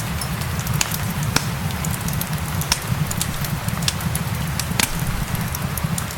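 Wood fire crackling, with many sharp irregular pops and snaps, over a steady hiss of rain and a low rumble.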